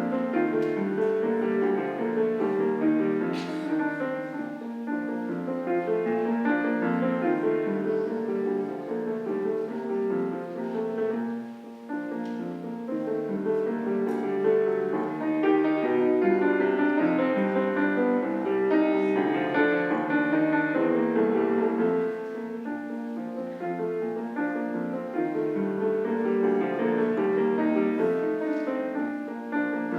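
Solo piano playing a continuous, flowing piece.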